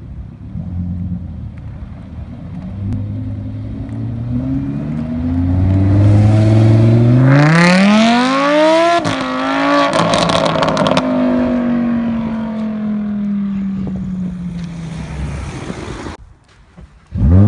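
Lamborghini Huracán's V10 engine accelerating hard away, the revs climbing steeply to a peak about nine seconds in, then a gear change with a burst of sharp crackles and a second climb before the engine note falls and fades as the car pulls away. It cuts off abruptly about sixteen seconds in, and another car's loud rev starts near the end.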